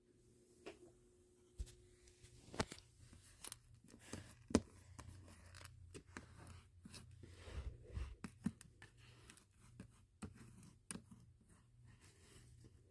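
Spilled beads clicking and rattling irregularly as they are gathered up by hand, with light rustling between the clicks; the sharpest click comes about four and a half seconds in.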